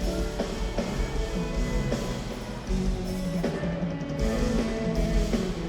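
Marching band playing: sustained brass notes over a steady drum beat with bass drum hits.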